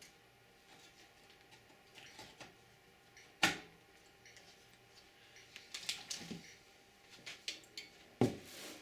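Clicks and knocks of parts being fitted into a 486 desktop computer case during reassembly, most likely the riser card going in. There is a sharp click about three and a half seconds in and another near the end, with lighter ticks between.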